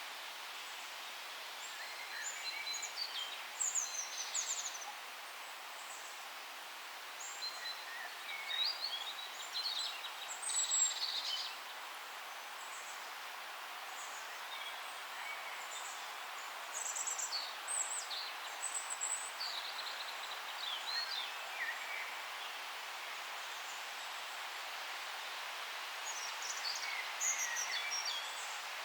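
Forest ambience: a steady outdoor hiss with small songbirds chirping in short bursts, in several separate bouts of quick, high calls.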